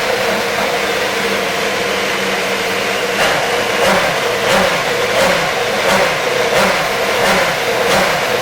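Super Formula race car's 2.0-litre turbocharged four-cylinder engine running on its pre-race warm-up with a deep, heavy note. About three seconds in it starts rising and falling in short, regular blips, roughly three every two seconds.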